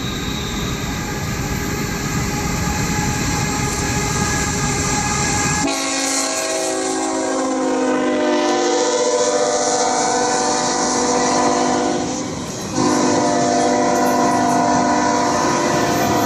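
Freight train rolling past with a steady rumble of wheels on rail. About six seconds in, a locomotive air horn sounds a long multi-tone blast, breaks off briefly, then sounds again.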